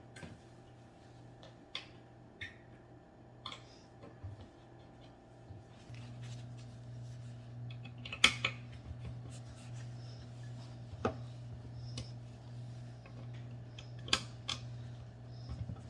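Coffee-table parts and hardware being handled during flat-pack assembly: scattered light clicks and knocks, the two loudest about eight and fourteen seconds in. A steady low hum comes on about six seconds in.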